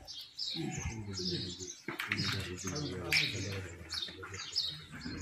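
Small birds chirping over and over in short, quick falling notes, over a murmur of people's voices.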